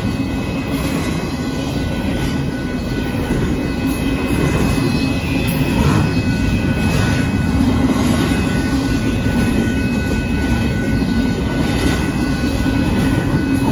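Union Pacific double-stack intermodal freight train passing at a grade crossing: a steady, loud rumble of wheels and cars on the rails, a little louder from about six seconds in. A steady ringing from the crossing's warning bell sits above it.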